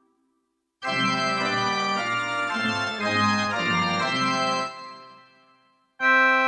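Casio CT-X700/CT-X870IN portable keyboard playing a short phrase of sustained notes and chords on one of its preset tones. The phrase starts about a second in and fades out around five seconds. Just before the end, a new tone starts with a sharp attack.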